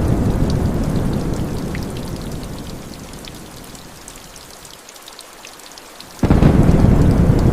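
Thunderstorm with steady rain: a deep rumble of thunder fades away over the first four seconds or so, leaving rain with scattered drop ticks. A second loud, deep rumble breaks in suddenly about six seconds in.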